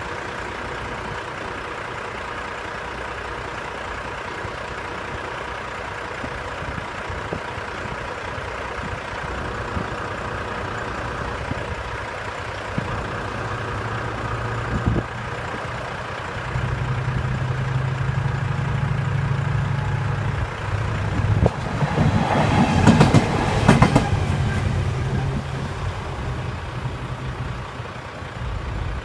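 British Rail Class 70 diesel locomotive running light engine, approaching and passing. Its low engine hum builds from about halfway through, and about three-quarters in a quick clatter of wheels over rail joints peaks the sound before the engine fades away.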